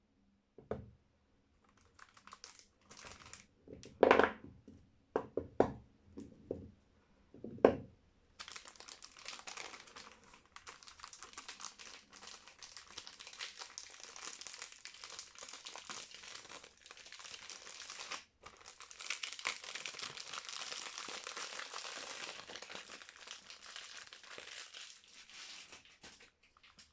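Soap wrapper crinkling as a bar of soap is unwrapped. The first eight seconds hold a few separate crinkles and knocks, the loudest around four and eight seconds in; after that comes continuous crinkling with a brief pause about eighteen seconds in.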